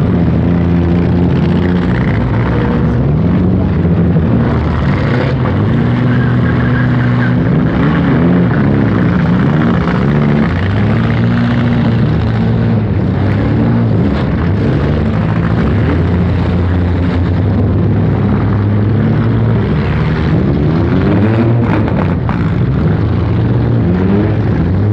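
Several four-cylinder demolition derby car engines running and revving at once, their pitches rising and falling against one another.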